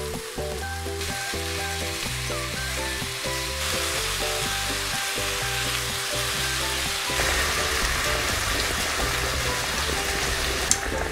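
Marinated spicy pork and vegetables (jeyuk bokkeum) sizzling in a nonstick wok over high heat as they are stir-fried. The sizzle grows louder in steps, about a second in, near the middle and again later on.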